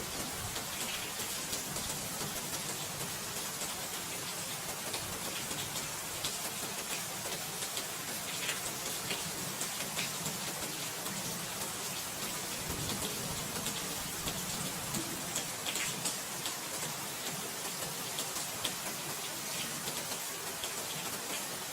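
Steady rain falling, with many small, sharp drop ticks scattered through it.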